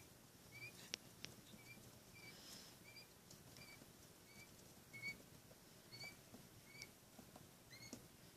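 A single Coturnix quail chick peeping faintly and steadily, about two short chirps a second, with a couple of light taps about a second in.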